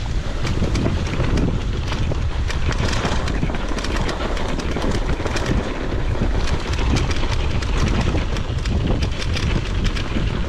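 Wind buffeting the microphone, a steady low rumble with many small crackles over it.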